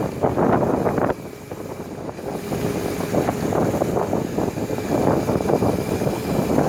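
Wind buffeting the microphone while riding a Razor MX350 electric dirt bike, with a faint steady hum from its electric motor. The rumble drops about a second in, then builds back up gradually.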